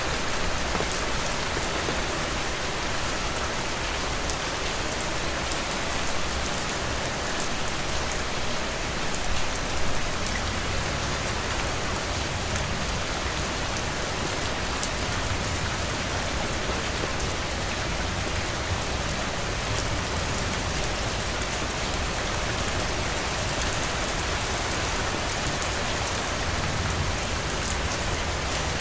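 Heavy rain falling steadily, with dense drop patter and a low rumble underneath.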